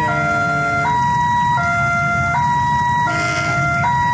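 Railway level-crossing warning alarm sounding an electronic two-tone signal, switching between a high and a low note about every three-quarters of a second. A steady low rumble runs underneath.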